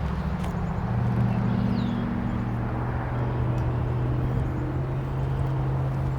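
Honeybees buzzing in a steady, dense drone around an opened hive, agitated by the hive being disturbed.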